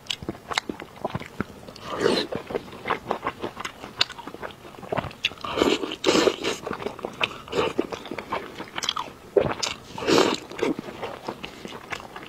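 Close-miked eating of braised pork knuckle: biting and chewing meat and skin off the bone, a run of sharp clicks and louder bites at an irregular pace.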